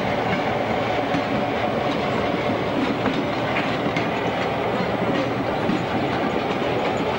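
Freight train boxcars rolling past: a steady rumble of steel wheels on rail with scattered clicks.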